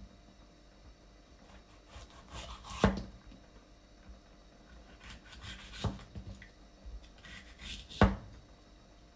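Kitchen knife cutting through a vegetable on a cutting board: three slow cuts, each a short scraping slice that ends in a sharp knock of the blade on the board.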